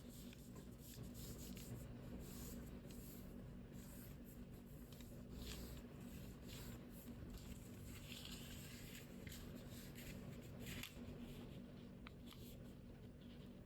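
Faint, irregular rustling and rubbing of a sheet of paper being folded and creased by hand, over a steady low hum.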